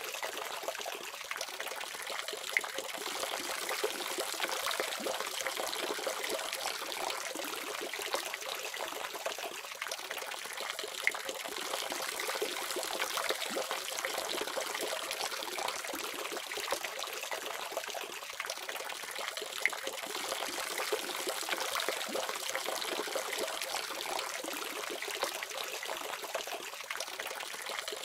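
Water running steadily from a faucet, an even splashing stream.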